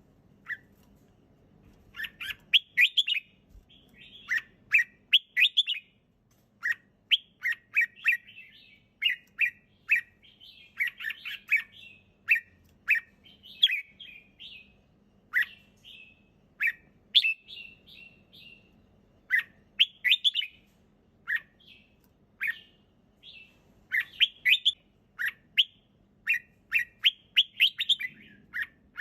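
Red-whiskered bulbul singing: short, bright phrases of a few quick chirping notes, repeated every second or two with brief pauses between them.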